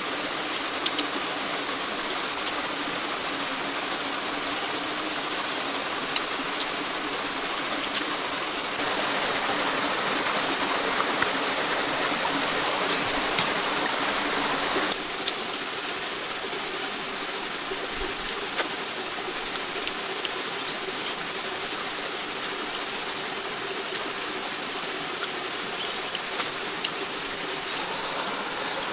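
Food frying in hot oil in a pan with chili: a steady sizzle with scattered sharp pops of spitting oil. The sizzle grows louder about a third of the way in and drops back about halfway through.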